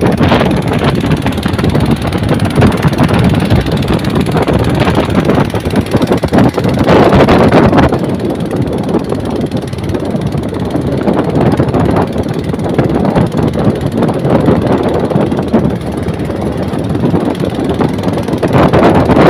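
A motorboat running through a rainstorm, its engine noise mixed with heavy wind buffeting the microphone. The wind gusts louder about seven seconds in and again near the end.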